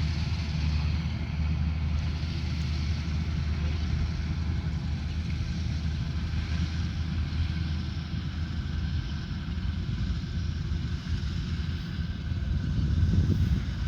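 Rice combine harvester's engine running steadily under load, with a brief swell in loudness near the end.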